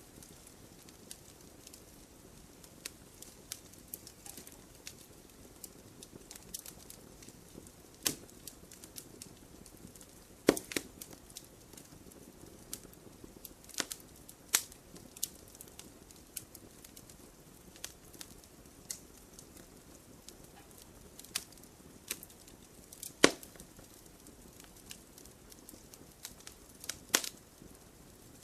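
Wood campfire burning: a soft steady hiss with irregular sharp crackles and pops, a few louder snaps standing out.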